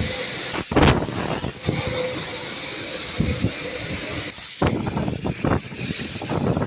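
Steady hissing spray of a car wash's high-pressure washer wand, with a few short, louder noises breaking through.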